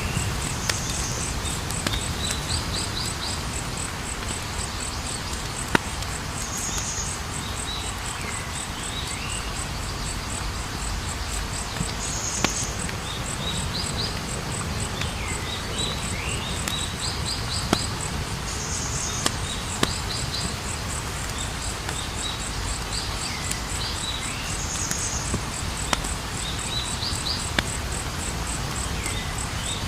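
A wood campfire burning with a steady low rumble and hiss and scattered sharp pops of crackling wood, about ten in all. Over it runs a constant fast high insect trill, with repeated short chirping calls.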